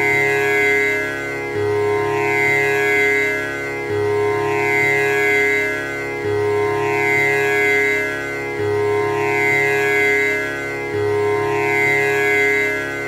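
Tanpura drone: its strings plucked one after another in a steady repeating cycle about every two and a half seconds, each cycle opening with a low note, the strings ringing on with the tanpura's bright buzzing overtones.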